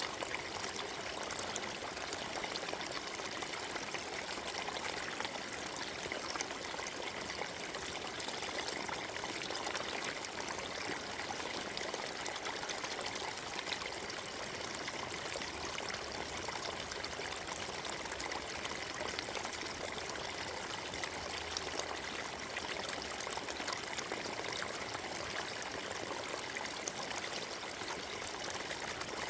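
Forest stream flowing over stones, a steady splashing and trickling rush of water.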